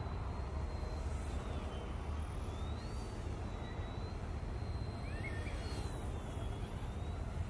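Thin whine of the E110 Sentry mini RC helicopter's rotors in flight, drifting up and down in pitch as the throttle and manoeuvres change, over a steady low rumble.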